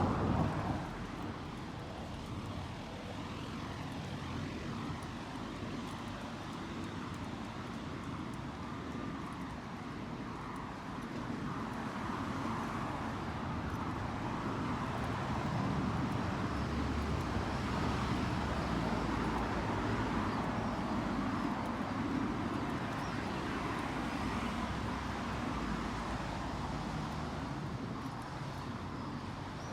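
Street ambience with a steady low rumble of motor traffic, swelling through the middle and easing near the end, after a brief louder noise right at the start.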